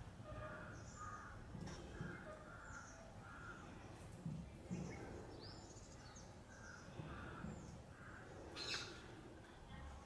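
Birds calling: a run of short, harsh, caw-like calls repeating about every half second, with thinner high chirps above them. A single sharp click stands out near the end.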